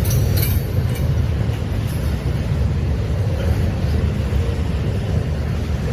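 A train rolling past on the rails: a steady, loud low rumble of wheels and cars, with a few sharp clicks in the first second.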